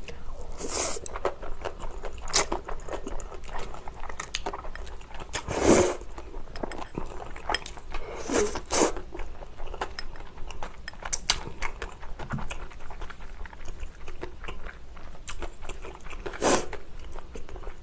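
Close-miked chewing of a mouthful of spicy cold noodles (naengmyeon), wet and clicking, with a few louder brief slurping sounds.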